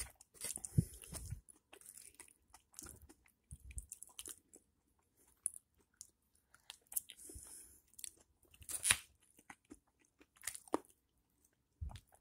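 A man chewing and biting into chicken: irregular crunches and chewing noises with short quiet gaps between them.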